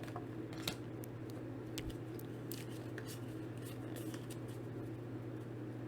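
Faint, scattered clicks and flicks of Pokémon trading cards being handled and sorted, over a steady low hum.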